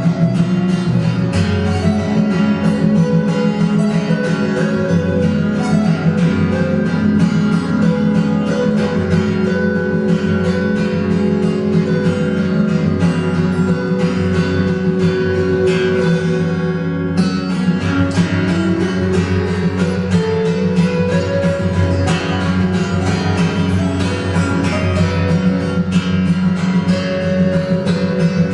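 Acoustic guitars playing music together: a steady flow of plucked and strummed notes over a sustained bass line. The high treble briefly thins out about two-thirds of the way through.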